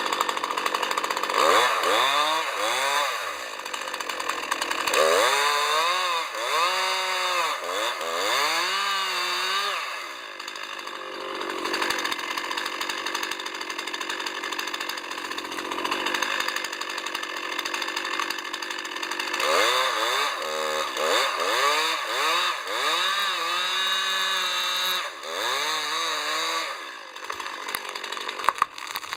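Chainsaw cutting oak wood, its engine pitch repeatedly rising and falling as it is throttled up and drops under load in the cut, with a steadier stretch of cutting midway.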